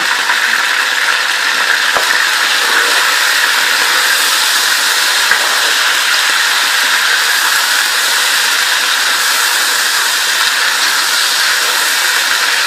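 Chicken pieces frying in hot oil in a pan, a loud, steady sizzling as the raw meat browns and begins to change colour.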